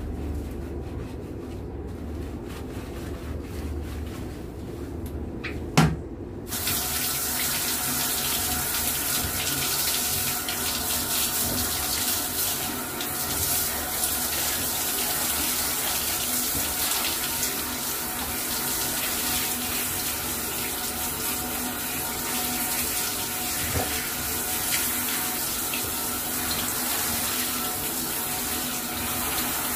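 A sharp click about six seconds in, then running water from a tap starts suddenly and runs steadily.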